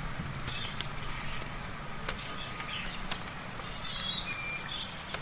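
Birds chirping in short calls, several times, over a steady patter of rain with scattered drips. A low steady hum runs underneath and stops at the very end.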